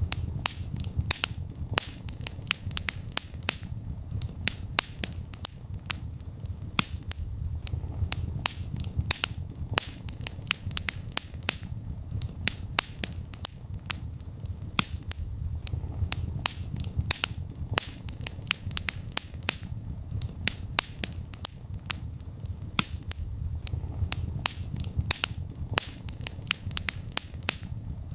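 Wood fire burning in a fireplace: a steady low rumble of flames with many sharp, irregular crackles and pops, several a second.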